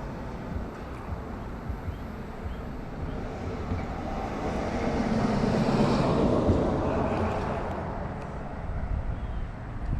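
A passing vehicle: its noise swells to a peak about six seconds in, then fades away.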